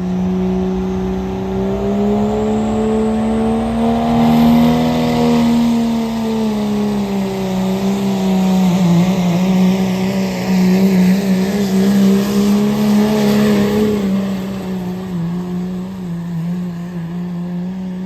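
Turbocharged diesel pickup truck engine running hard at high revs under heavy load as it pulls a sled. Its pitch climbs over the first few seconds alongside a rising high whistle, holds with small wavers, then eases off near the end.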